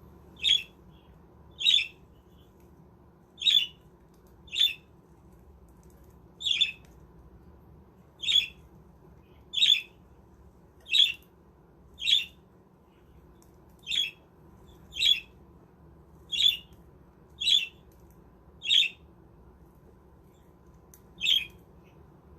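A budgie giving short, high squawking calls over and over, about fifteen of them, roughly one every second or so with a longer gap near the end.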